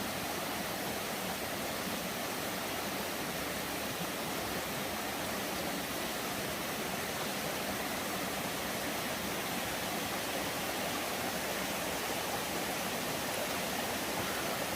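Steady rush of falling and running water from a waterfall and stream, an even hiss that does not change.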